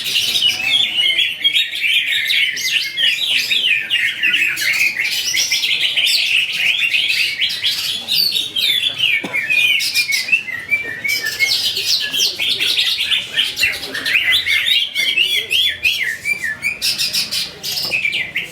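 Several cucak ijo (green leafbirds) singing at once: a loud, unbroken stream of rapid, overlapping chirps and whistled phrases that eases off briefly near the end.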